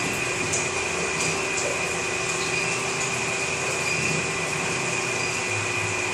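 Electric gold melting furnace running: a steady hiss and hum with a constant high whine.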